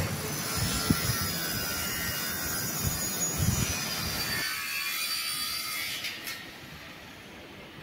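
Train noise at a station: a steady rushing hiss with a faint high whine and a few low thuds, dropping off about halfway through.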